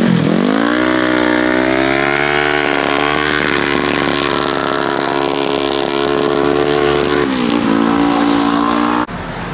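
Motorcycle engine revving up and holding a steady high note for several seconds, then dropping in pitch before it cuts off abruptly.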